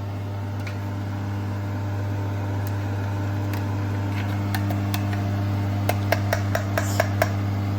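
A tuna can being opened: a run of quick metallic clicks, about five a second, starts about six seconds in over a steady low hum.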